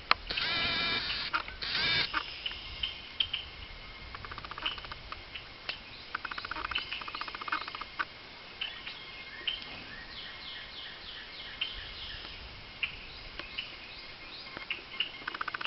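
Birds calling: a loud, harsh call in the first second and another about two seconds in, then scattered high chirps, quick falling notes and rapid chattering runs.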